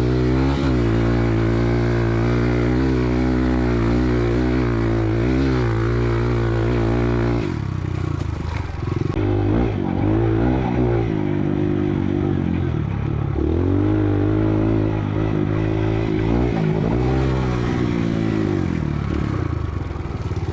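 Kawasaki KLX dirt bike's single-cylinder four-stroke engine running while riding, its pitch rising and falling with the throttle. About seven and a half seconds in, the engine note drops off, then picks back up.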